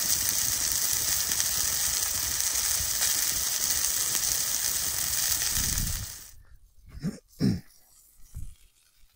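Sausage patties frying in a cast-iron skillet over a campfire: a steady sizzle that cuts off suddenly about six seconds in. A few quiet knocks and rustles follow.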